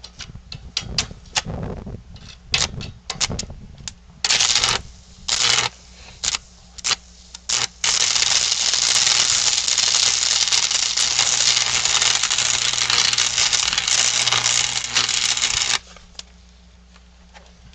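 Arc welding on steel: a few short crackling arcs struck in quick succession, then one steady crackling bead about eight seconds long with a low electrical hum under it, cutting off suddenly near the end.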